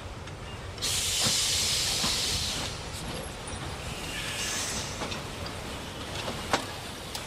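Steam locomotive releasing steam: a loud hiss starts about a second in and lasts a couple of seconds, then a softer second hiss follows, with a few sharp clicks and knocks.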